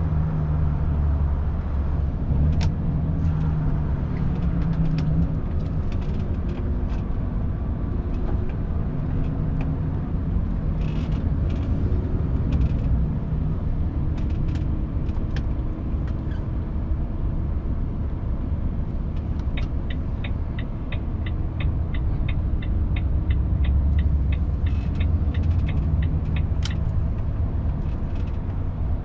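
Volvo FH 500 truck's 13-litre straight-six diesel running steadily while driving, with scattered light clicks. In the second half, a steady ticking of about three ticks a second runs for some seven seconds: the turn-signal indicator.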